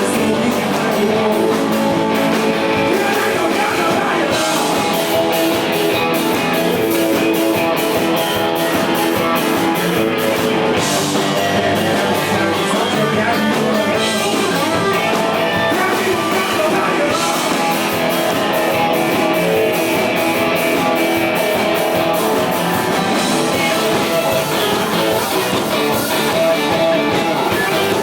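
Rock band playing live: electric guitars and drum kit, steady and loud, with a voice singing over them.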